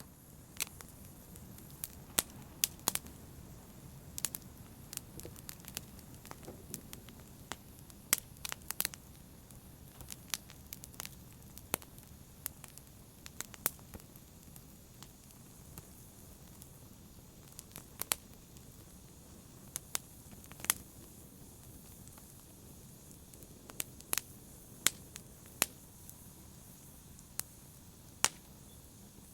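Wood fire crackling in a fireplace: irregular sharp pops and snaps, several a second at times, over a steady low rumble and hiss of the flames.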